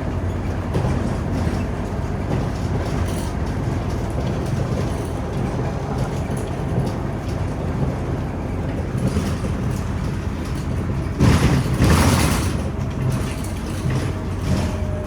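Scania OmniCity city bus running steadily on the road, its engine a low steady drone. About eleven seconds in, a loud rushing noise lasts roughly a second and a half.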